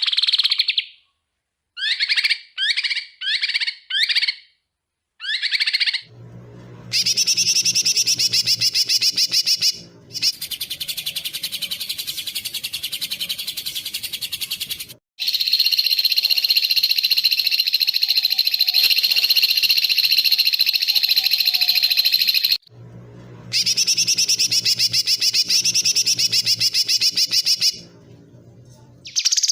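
Small songbirds' sharp, rapid song: about five short separate calls, then long, very fast trills that cut off abruptly between spliced segments. A low hum runs under some of the trills.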